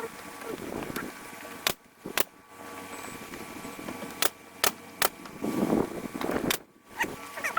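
Wooden trim being fastened to a garage door: a handful of sharp knocks at irregular intervals, with scraping and handling noise in between.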